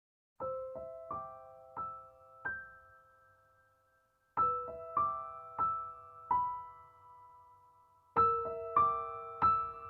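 Background piano music: a slow, gentle melody of single notes, played in three short phrases of about four notes each with a brief pause between them.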